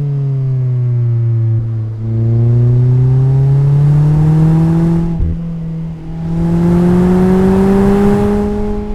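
Mazda MX-5's four-cylinder engine and exhaust under way: it eases off with falling pitch, then opens up about two seconds in and revs rising. A brief break a little past halfway, like a gear change, comes before it pulls up through the revs again, louder and harsher.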